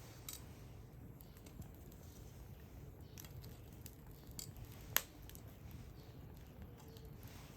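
Campfire burning faintly, with a few scattered sharp pops and crackles over a low steady rumble; the loudest pop comes about five seconds in.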